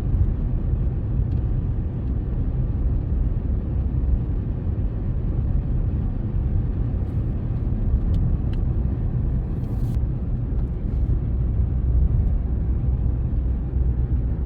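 Steady road and engine rumble inside a moving vehicle's cabin while driving on a highway.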